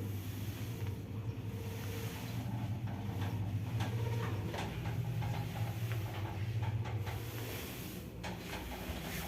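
2008 ShLZ passenger elevator running: a steady low hum from the moving car, with scattered clicks and rattles from about three seconds in.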